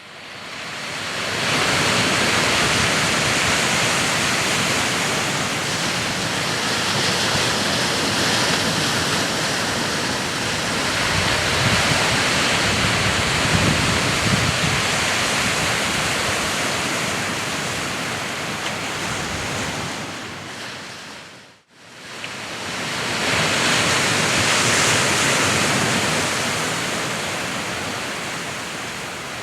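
Sea surf washing ashore: a steady rushing noise that slowly swells and eases over several seconds. It drops out to silence for a moment about two-thirds of the way through, then fades back up.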